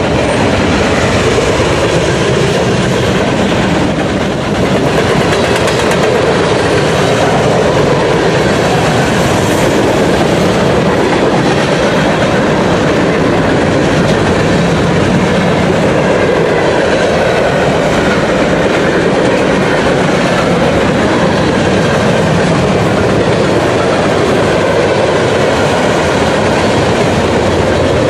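BNSF manifest freight train's cars rolling past, a loud, steady noise of steel wheels running on the rails.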